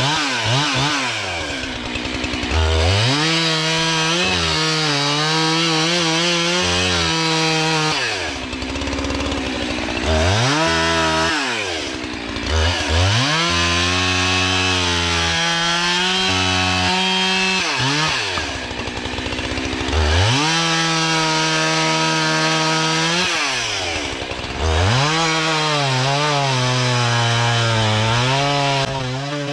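Chainsaw bucking logs into firewood lengths. The engine revs up and holds high through each cut, drops back to a low idle, then revs into the next cut, about five times over.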